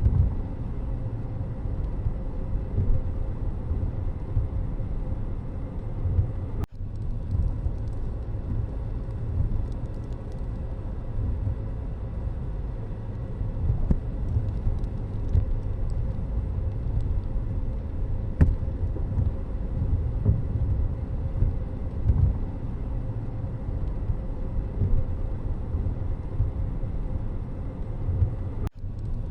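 Steady low rumble of a vehicle on the move: road and engine noise. It cuts out briefly twice, about seven seconds in and near the end.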